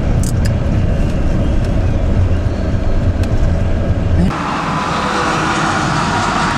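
Hailstorm heard from a vehicle: a steady low rumble of the car with a few sharp ticks of hail striking. About four seconds in the sound switches abruptly to a steadier, higher hiss of the storm.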